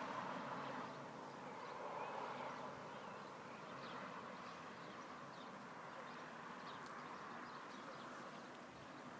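Birds chirping in short, scattered calls over a steady rushing background noise.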